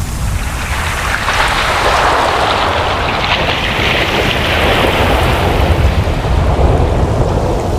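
Ocean waves: a wave swells and washes in with a rising, then fading hiss over a steady deep rumble of surf.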